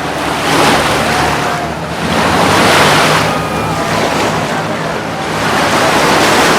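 Ocean surf breaking and washing up the beach, swelling and fading about every two to three seconds, over a steady low engine hum.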